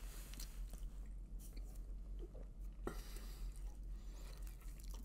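A man chewing a mouthful of pepperoni pizza with his mouth closed: faint, irregular wet chewing clicks and smacks, one a little sharper about three seconds in.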